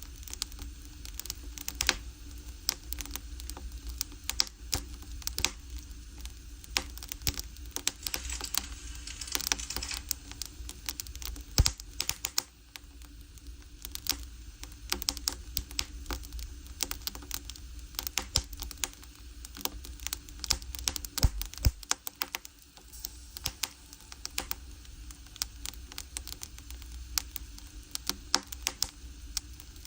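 Firewood burning in an agungi (Korean wood-fired fire hole), crackling and popping in sharp, irregular snaps over a low steady rumble, with a brief hiss about nine seconds in.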